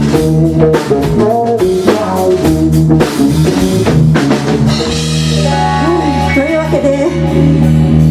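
Live rock band playing, with drum kit and guitar. The drum strikes stop about five seconds in, leaving held chords under a wavering melody line.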